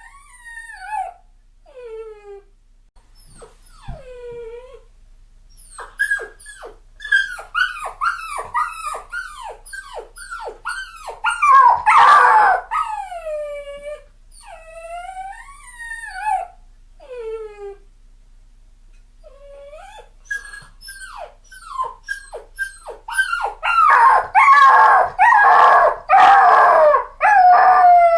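Puppy crying: a run of short, high whimpers and yelps, most falling in pitch, thinly spaced at first, then in quick bursts that grow loudest twice, about twelve seconds in and again over the last few seconds.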